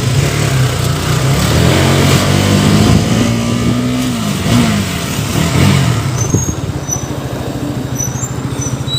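KTM Duke 200 single-cylinder engine running, just after starting. The revs climb for a couple of seconds, drop about halfway through, then settle into a steady low beat.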